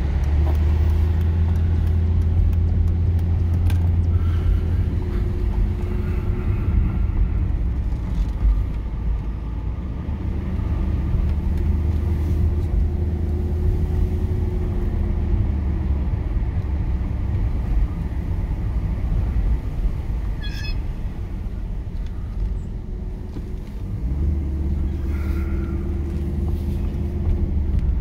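Mercedes-Benz E420's 4.2-litre V8 and tyres heard from inside the cabin while driving slowly, a steady low hum. The hum eases off about two-thirds of the way through and picks up again near the end.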